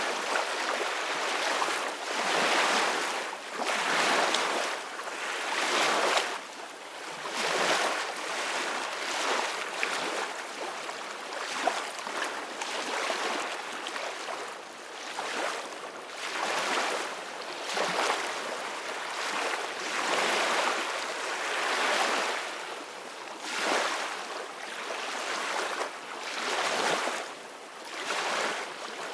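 Ocean waves breaking and washing in, the surf hiss swelling and falling back every two seconds or so.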